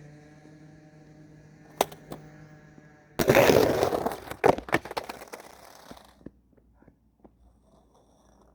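Skateboard rolling with a steady low hum, two sharp clicks, then a loud, coarse grind of about a second that trails off over the next two seconds, broken by several sharp clacks of the board.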